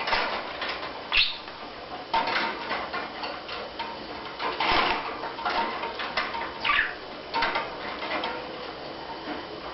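A budgie knocking and rattling small hard objects in a run of irregular taps, with a short sharp chirp about a second in and a quick chirp falling in pitch near the seven-second mark.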